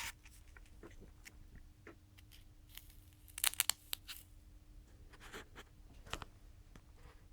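Hands handling small objects on a workbench: scattered faint clicks and rustles, with a quick run of sharper clicks about three and a half seconds in and another click near six seconds, over a faint steady hum.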